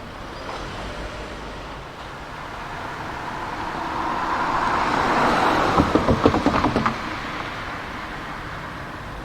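A vehicle approaches and passes, its noise swelling to a peak about five seconds in. As it goes by there is a rapid run of about eight clacks in a little over a second, and then the noise fades away.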